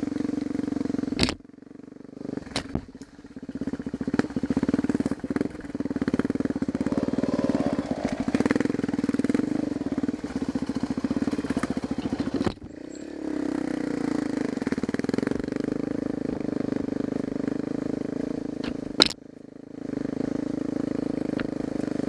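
Dirt bike engine running as it is ridden, holding a steady note that drops away briefly about a second in, around twelve seconds in and again near the end, with sharp knocks scattered throughout.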